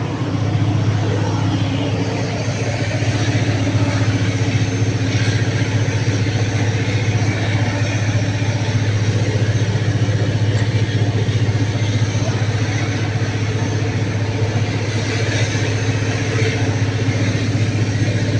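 An engine running steadily at constant speed, giving an unbroken low drone.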